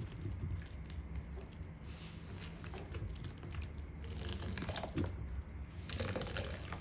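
Wet makeup sponges being squeezed and worked by hand: a run of irregular wet crackles and squelches that grows busier about four seconds in.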